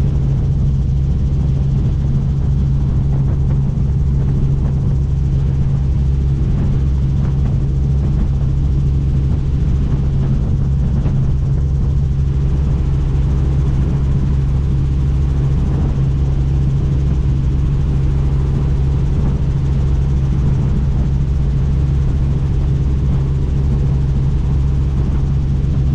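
Helicopter in steady flight heard from on board with the doors off: a loud, unchanging low drone of the rotor and engine with a rushing hiss above it.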